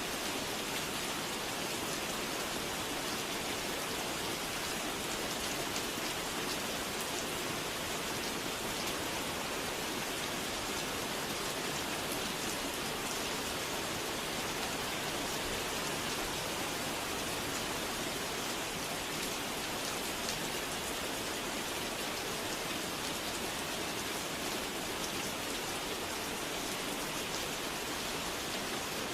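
Steady rain falling, an even, unbroken hiss with fine pattering drops.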